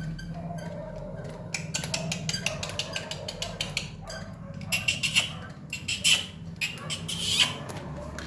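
A parrot's beak pecking and gnawing at a small box: rapid, irregular clicks and scratches that grow thicker and louder in the second half.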